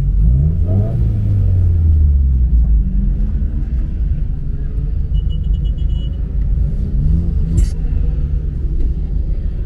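Car engines rumbling as cars drive out of a car meet, one revving up about a second in and another around seven seconds, with a brief sharp hiss just after.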